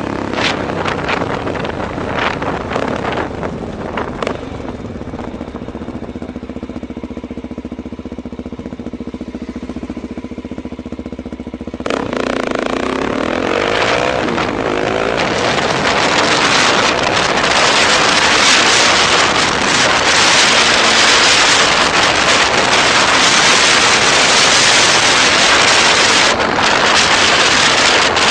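Motorcycle engine running at a steady pitch. About twelve seconds in, the sound cuts to a much louder rush of wind noise, with an engine revving up and down briefly and then a steady roar of wind.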